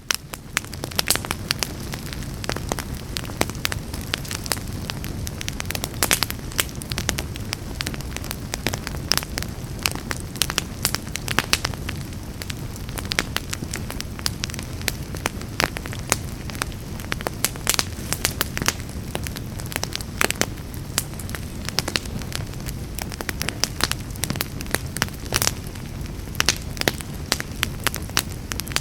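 Fireplace fire crackling steadily, with frequent sharp irregular pops over a low, even rumble of flames.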